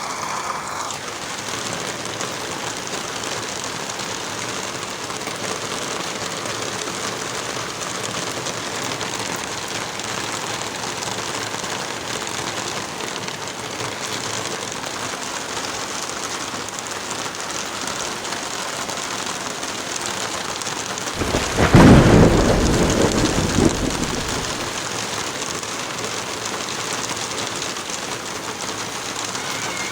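Heavy rain falling steadily. About two-thirds of the way through, a clap of thunder breaks in suddenly, louder than the rain, rumbling for a few seconds before it fades.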